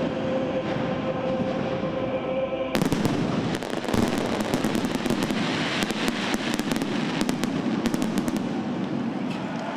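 Large fireworks display: dense crackling and bangs of many shells bursting close together without a break.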